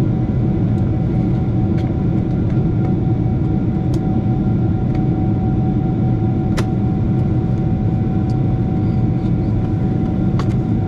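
Steady cabin noise inside a Boeing 747-8: an even low rumble of engines and air with a steady hum, and a few faint clicks.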